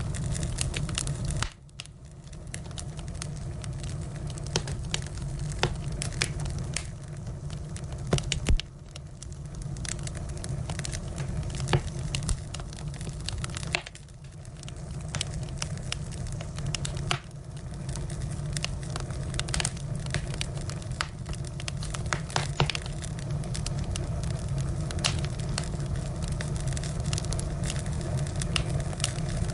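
Firewood burning: wood crackling and popping with scattered sharp snaps over a steady low rumble of the flames, briefly quieter about a second and a half in and again near the middle.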